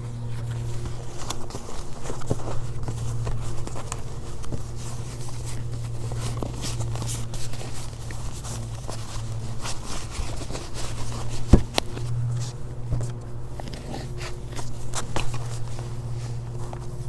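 Handling noises of a knife-sharpening kit being packed up: irregular rustles, scrapes and light knocks, with one sharp knock about eleven and a half seconds in. A steady low hum runs underneath.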